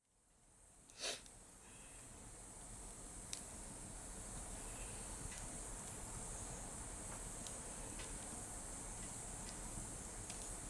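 Wood bonfire crackling, with a loud pop about a second in and scattered smaller pops after it, over a steady high-pitched chorus of summer insects. The sound fades in at the start.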